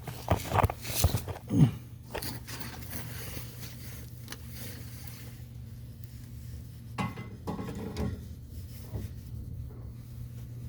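Metal tools and parts clinking and scraping as they are handled and set down, with a few sharp knocks in the first two seconds and more about seven seconds in, over a steady low hum.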